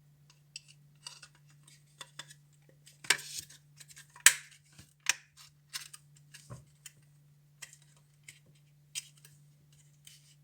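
Irregular small clicks, taps and short scrapes of hand work on a diecast model bus, over a steady low hum. The loudest snaps come about three and four seconds in.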